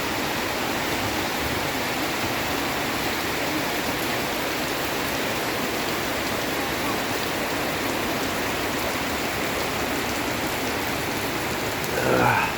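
Heavy tropical downpour: a steady rush of rain pouring down. Near the end, a short sound rises sharply in pitch over the rain.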